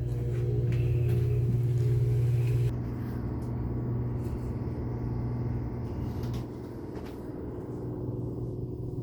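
Tugboat engine running, a steady low drone with a hum heard through the hull; it drops in level suddenly a little under three seconds in and then carries on steadily.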